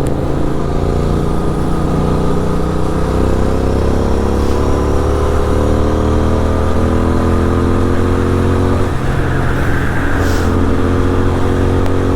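Superbike engine with a full-system exhaust pulling under steady acceleration at highway speed, its pitch climbing slowly for several seconds, dipping briefly about nine seconds in, then running on.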